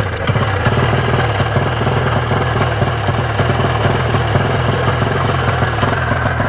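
1987 Ski-Doo Safari 377's two-stroke engine running steadily just after catching on a pull start, warming up from cold.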